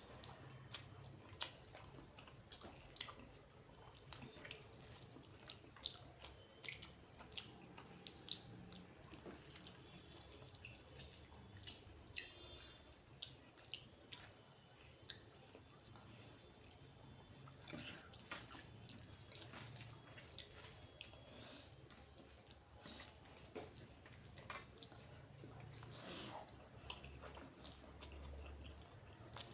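Close-miked wet chewing and mouth sounds of someone eating rice and mutton curry: irregular sharp, wet clicks and smacks over a faint hum.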